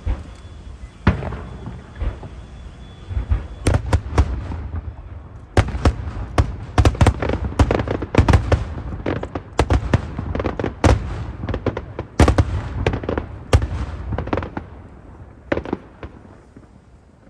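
Aerial fireworks shells bursting overhead. A few separate bangs come first, then a dense, rapid barrage of overlapping booms and cracks for about nine seconds, then a couple of last bursts as it thins out near the end.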